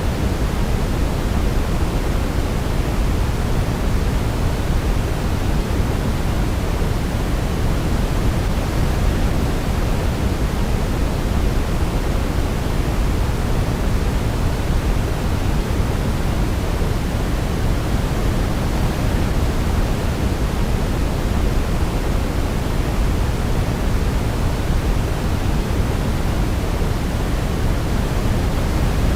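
Steady white noise for baby sleep: a constant, even hiss with most of its weight in the low end and no melody over it.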